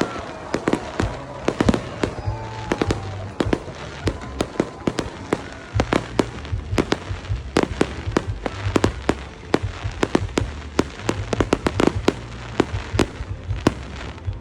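Fireworks exploding overhead in a rapid, irregular string of sharp bangs and cracks, several a second, with no pause.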